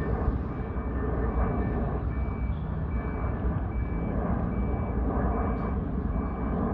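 Vehicle reversing alarm giving a short high beep about every 0.8 s, over a steady low rumble.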